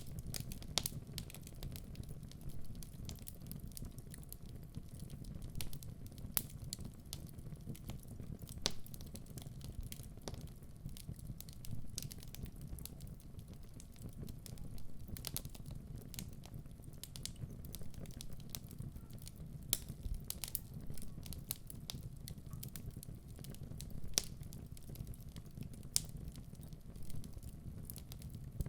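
Wood fire burning in a fireplace: a steady low rumble of the flames with frequent irregular crackles and snaps from the burning logs, a few of them sharper pops.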